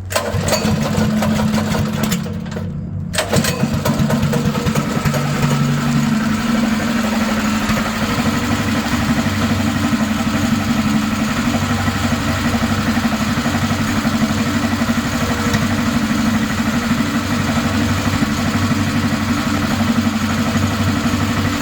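Mini bike's small engine starting and running. It dips briefly about two seconds in, then picks up and runs steadily.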